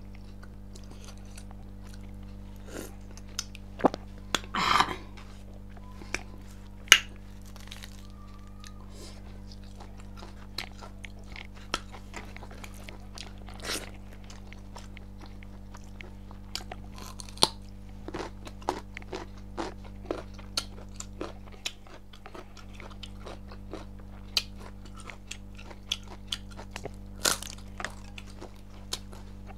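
Close-miked mukbang eating: chewing and crunching with many short wet mouth clicks and smacks, and one longer, louder crunch about five seconds in, over a steady low hum.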